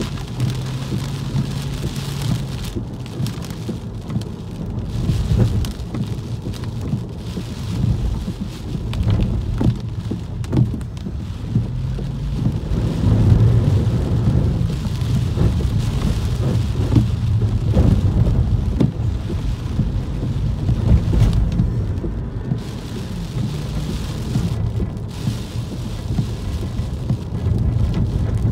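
Rain pattering on a moving car in a windy thunderstorm, heard from inside the car, over a steady low rumble that swells about halfway through.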